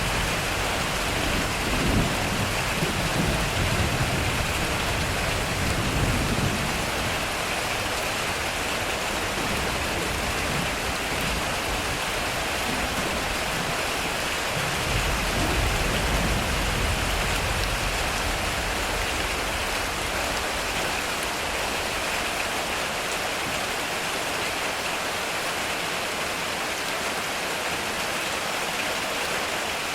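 Heavy rain drumming steadily on a metal roof, with low rolls of thunder rumbling from about two seconds in and again around fifteen seconds.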